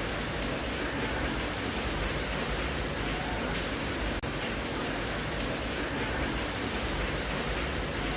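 Steady rain, an even hiss of falling water with no separate drops standing out. The sound cuts out for a split second about halfway through.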